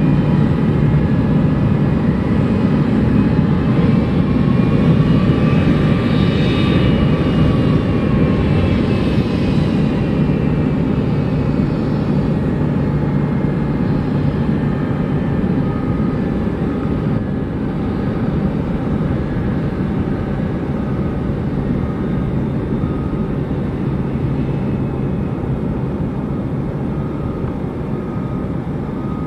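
Boeing 757-200's jet engines running loud and steady, with a whining tone that rises and falls about six to nine seconds in, then the roar slowly eases.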